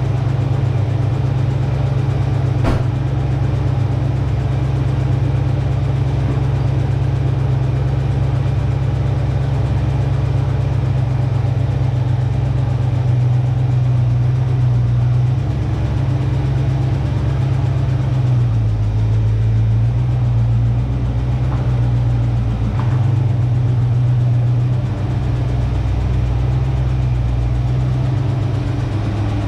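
1966 Ford Mustang engine idling steadily after a fuel pump replacement, running after years of sitting. The idle wavers and settles lower past the middle, and there is one brief click about three seconds in.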